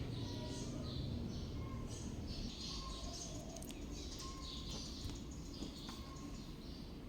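Birds chirping in short, repeated high calls, about one or two a second, over a steady low rumble.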